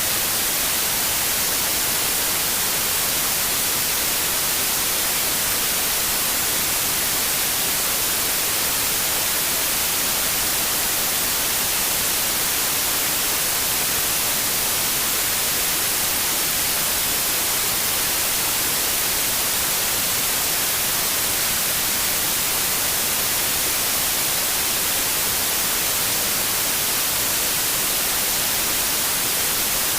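Steady white noise: an even, unbroken hiss that stays level throughout, with more energy in the high frequencies.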